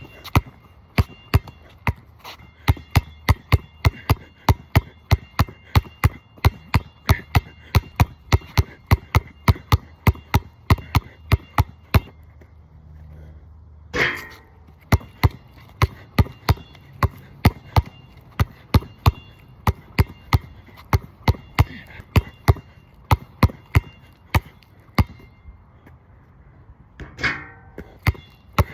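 Basketball dribbled hard on a rain-wet outdoor court, steady bounces about two to three a second. The bouncing breaks off briefly a little before halfway, and there are two louder, longer-ringing hits, one about halfway and one near the end.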